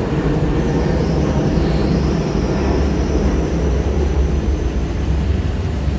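ЭП2Д electric commuter train running, a loud steady rumble with a faint high whine that dips and then rises about two seconds in.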